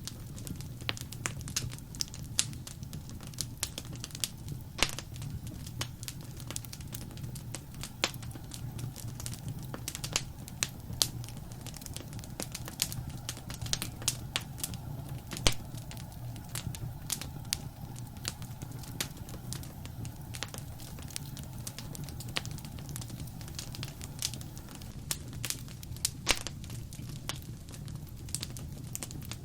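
Wood fire in a fireplace crackling: constant irregular sharp pops and snaps, with a few louder ones, over a steady low rumble.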